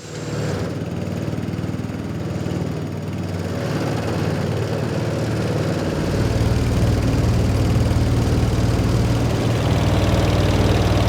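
Small engine running steadily with a low, even note. It picks up about six seconds in, becoming louder and deeper.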